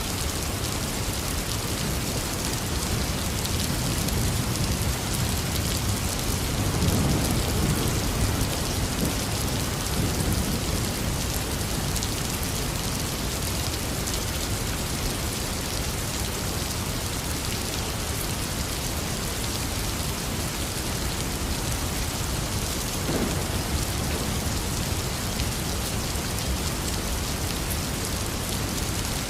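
Heavy rain falling steadily in an even hiss of drops. A low rumble of thunder swells and fades about seven seconds in.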